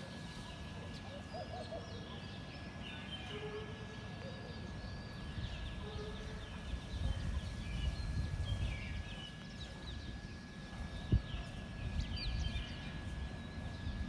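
Many birds chirping in short, high calls over a low background rumble and a thin, steady whine, with a single sharp knock about eleven seconds in.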